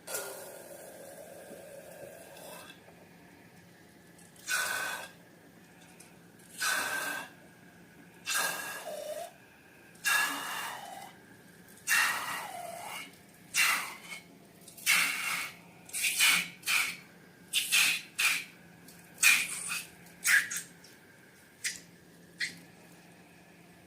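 Slime being squeezed and worked: a series of wet squelches, about a second apart at first, then shorter and quicker.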